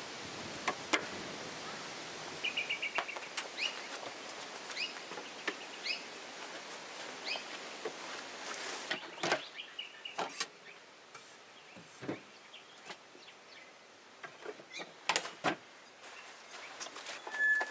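Birds chirping outdoors: a quick run of short rising chirps, then two held whistled notes near the end. Under them is a steady hiss that fades partway through, and scattered sharp clicks and cracks.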